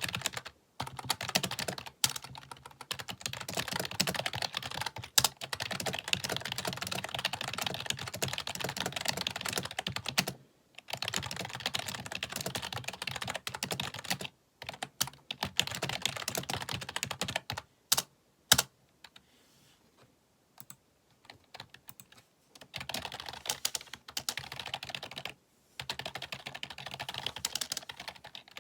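Fast typing on a computer keyboard, dense clatters of key clicks in runs of several seconds with brief pauses, a few louder single keystrokes, and a longer near-pause of a few seconds past the middle with only scattered taps.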